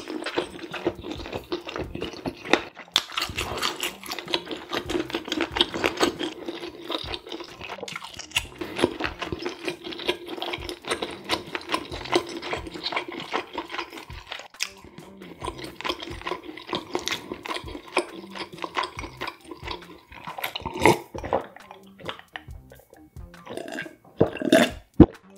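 Close-miked chewing and wet mouth sounds, dense small clicks, over steady background music. Near the end come a few louder gulps of beer swallowed from a glass mug.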